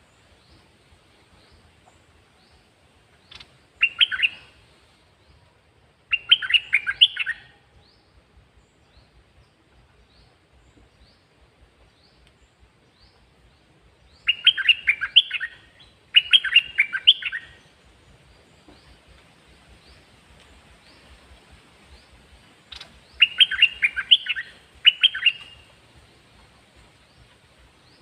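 Caged songbird singing short, loud phrases of quick whistled notes, with pauses of a few seconds between them: about six phrases, the loudest bunched around 4, 6–7, 14–17 and 23–25 seconds in.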